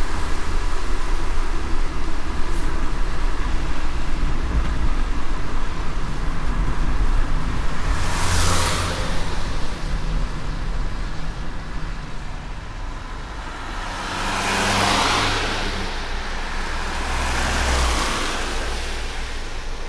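A car driving on a wet road in light rain: steady tyre and road rumble with the hiss of rain. Three louder whooshes rise and fade, one about halfway through and two near the end.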